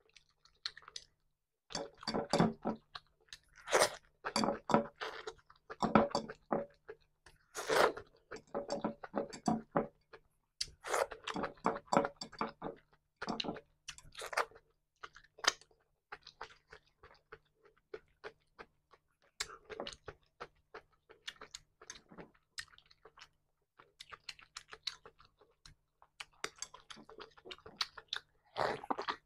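A person chewing a meal of tilapia fish and salad, picked up close by a clip-on microphone, in quick runs of small mouth clicks and smacks. The sounds are busiest in the first half, grow sparser later, and pick up again near the end.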